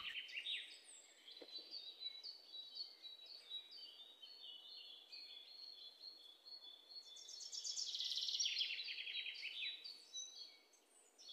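Small birds chirping, with rapid trilled runs of notes that grow busiest and loudest about seven seconds in.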